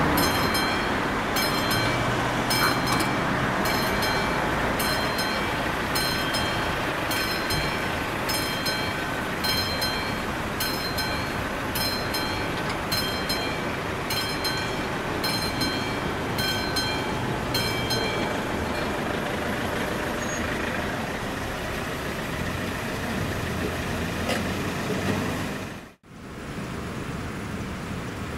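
Classic bell of an AŽD 71 level-crossing warning system ringing in steady strokes about once a second over the rumble of a passing train. The bell stops about two-thirds of the way through, leaving the fading train noise, which drops out briefly near the end.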